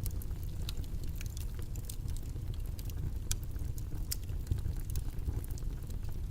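A steady low rumble of background noise with small, irregular clicks and crackles scattered through it.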